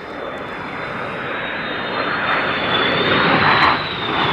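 Jet engines of a Viper-engined Jet Provost T5 and two Goblin-engined de Havilland Vampires flying past in formation. A rush of jet noise builds up, with a high whine that dips slightly in pitch as they go by, and is loudest about three and a half seconds in.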